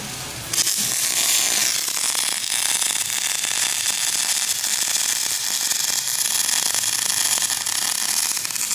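Electric arc welder laying a weld bead on steel axle brackets: a steady, dense crackling hiss that starts abruptly about half a second in.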